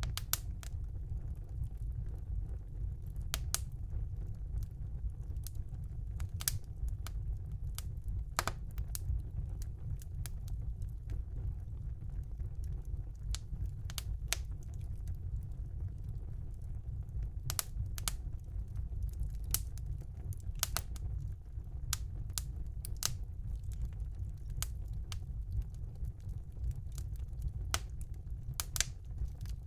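Wood fire burning in a fireplace: a steady low rumble of the flames with sharp, irregular pops and crackles from the burning logs, several clustered close together near the end.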